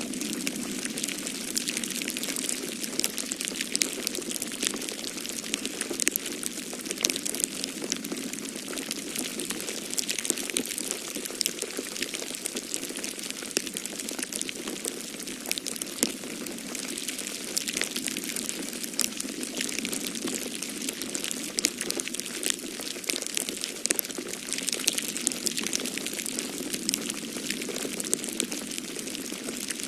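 Wood fire crackling in a fireplace, with frequent sharp pops and snaps over a steady hiss, and a low rush of blizzard wind beneath it.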